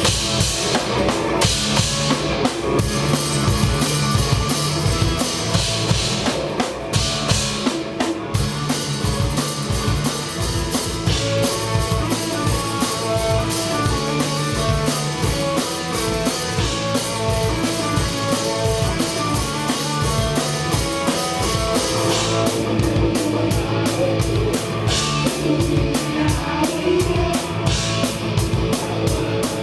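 A live rock band playing a song, with drum kit and guitars; the drums are heard up close.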